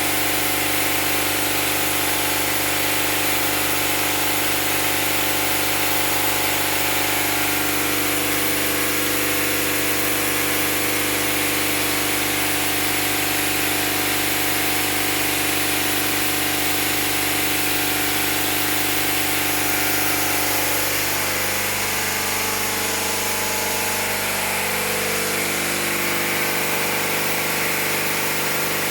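Fire pump engine running steadily during a test, with a strong hiss over the engine note. About twenty seconds in, the engine's tones shift briefly, then settle again.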